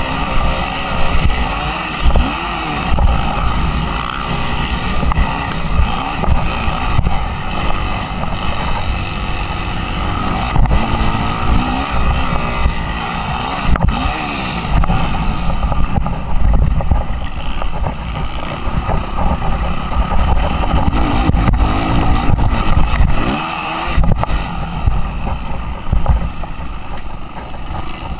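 Suzuki RM-Z 250 four-stroke single-cylinder motocross engine under hard riding, revving up and down again and again as the bike goes through gear changes and corners. Heavy low rumble runs beneath it.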